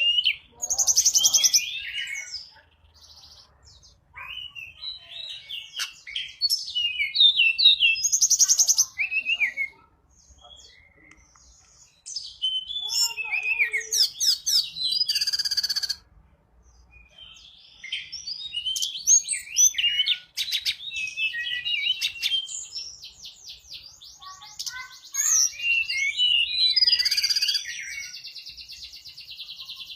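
Tledekan gunung song used as a lure call: bursts of quick high chirps, twittering phrases and rapid clicking trills, broken by short pauses.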